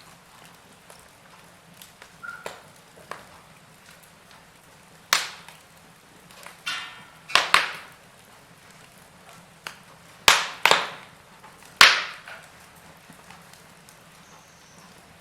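Wood fire burning in a fireplace: a soft steady hiss under sharp crackles and pops, several loud snaps coming a second or so apart through the middle and later part.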